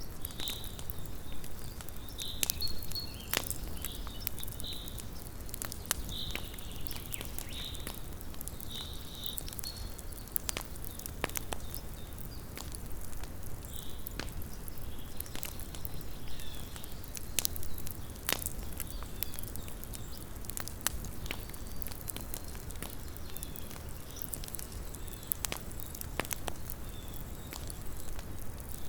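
Small campfire crackling, with irregular sharp pops and snaps from the burning wood over a low steady hiss. Short high-pitched calls repeat in the background, clearest in the first third and fainter later.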